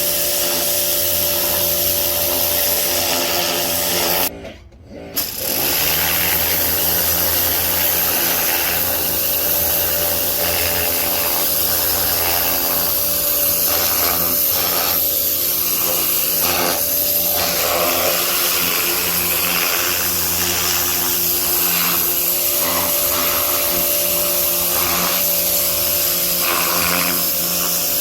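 Pressure washer running steadily with its spray hissing, cutting out briefly for about a second, four seconds in, then carrying on.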